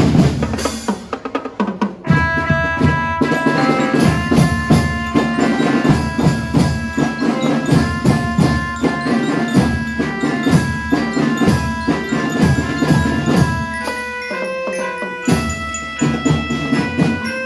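Javanese gamelan-style music: drum strokes alone for the first two seconds, then a full ensemble of struck keyed instruments ringing out melody notes over a steady drum rhythm.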